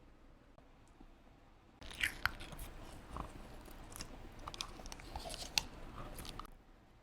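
Slime being squished and worked by hand, a dense run of crackly clicks and wet squishes that starts about two seconds in and stops suddenly near the end.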